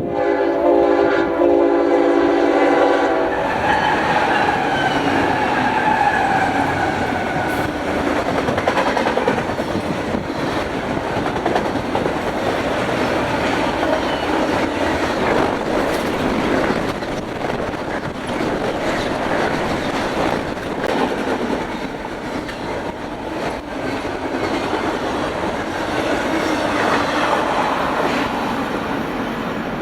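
Freight locomotive horn blaring a multi-note chord as a Union Pacific intermodal train passes at about 70 mph. Its pitch drops as the locomotive goes by, then the horn fades into the steady rush and clatter of the train's wheels on the rails.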